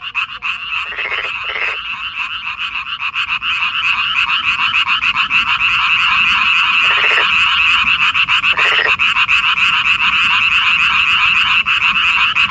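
A dense chorus of many frogs calling at once: a continuous fast-pulsing trill. A few lower, separate croaks stand out briefly, about a second in and twice more midway. The chorus swells over the first few seconds, then holds steady.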